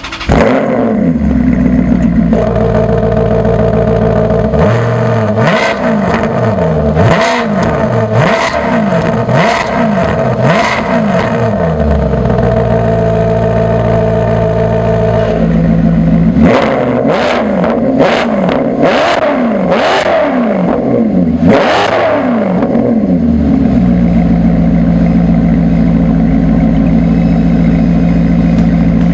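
Maserati GranTurismo MC Stradale's 4.7-litre V8 idling and being revved in quick throttle blips, each rising and falling in pitch. There are two runs of repeated revs, a few seconds of idle between them, and then it settles to a steady idle near the end.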